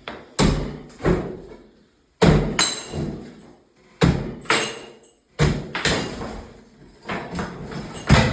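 Repeated heavy strikes of demolition work, about ten blows at uneven intervals of half a second to a second and a half, each followed by a rattling trail.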